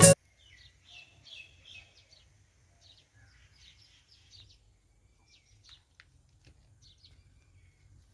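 Music cuts off abruptly at the start, then faint, scattered bird chirps over a low background rumble.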